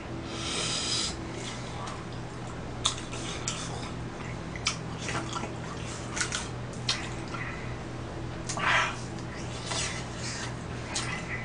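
Close-up eating sounds: chewing of tteokbokki rice cakes, with scattered sharp clicks of chopsticks against plastic takeout tubs and a louder mouth noise about nine seconds in, over a steady low electrical hum.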